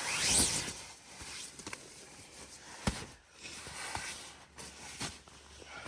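Fabric of a sleeping bag rustling as it is handled, opening with a quick rising swish and a sharp knock about three seconds in.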